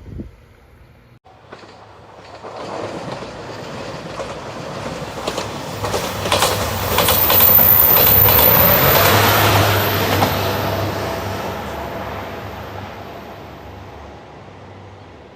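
A train passing: its sound builds over several seconds, is loudest about halfway through with a quick run of wheel clatter over the rail joints and a steady low hum, then fades away.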